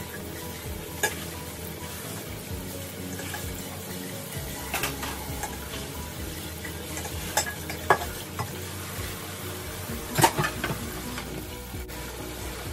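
Chicken drumsticks deep-frying in an electric deep fat fryer, a steady sizzling hiss. Over it come several clanks of a stainless steel pot being washed in the sink, the loudest about ten seconds in.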